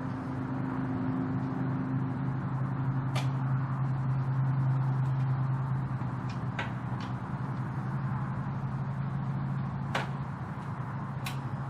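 Electric fuel pump on a Ducati 916 running with a steady hum while it primes the fuel system, with a few light clicks and taps.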